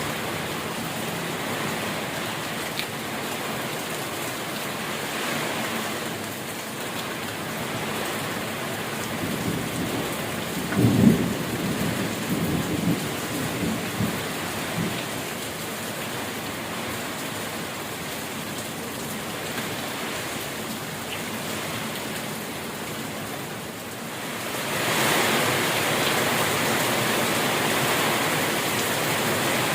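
Steady rain with a clap of thunder about eleven seconds in that rumbles on for a few seconds. Near the end the rain grows louder.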